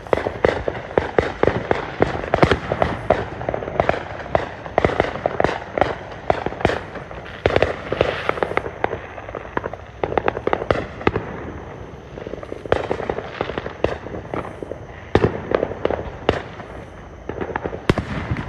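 Fireworks going off in quick, irregular succession: a dense run of sharp bangs and crackles, thinning out for a couple of seconds past the middle before picking up again.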